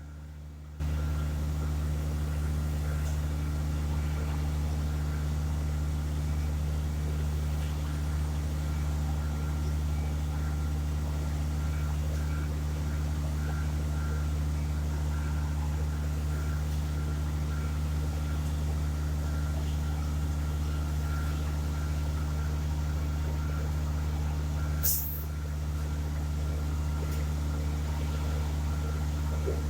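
Heavy diesel truck engine running steadily at idle; it comes in abruptly just under a second in. Near the end there is one short, sharp hiss of released air.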